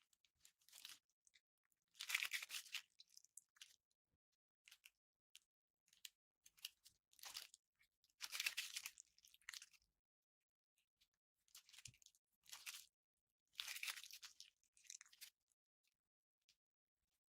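Glossy slime being squeezed and pressed by hand, making short bursts of wet crackling and popping from trapped air bubbles, with silent gaps between.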